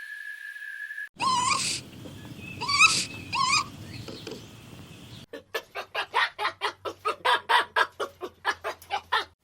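A series of animal calls. First a steady high tone stops about a second in. Then come three short, wavering calls, and from about five seconds in a fast run of short calls, about three a second.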